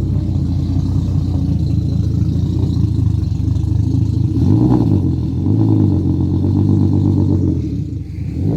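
Turbocharged 2.5-litre BMW M50 straight-six running just after a cold start through a straight-pipe exhaust. The revs rise a couple of times around the middle and sag near the end. It runs unevenly because it doesn't like cold starts and isn't tuned for them.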